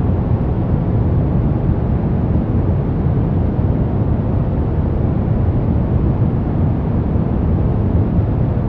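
Steady brown noise: an even, deep rushing hiss with most of its weight in the low end and little in the highs, with no changes.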